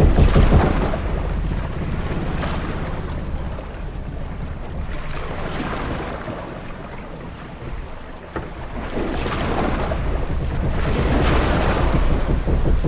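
Sea waves washing against a ship's hull over a steady deep wind rumble, with the wash swelling about a second in, again around five seconds, and most strongly from nine to twelve seconds.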